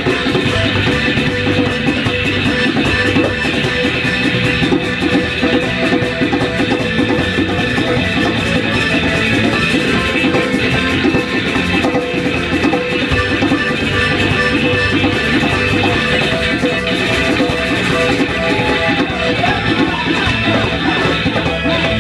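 Live band music, an instrumental section led by guitar over a steady drum and bass rhythm.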